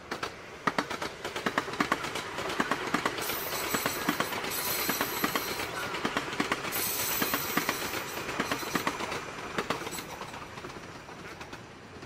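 CRH high-speed electric train running past, with a rapid clatter of wheels over rail joints over a steady rush of noise. The sound swells after the start and eases off toward the end, and a high hiss comes in twice in the middle.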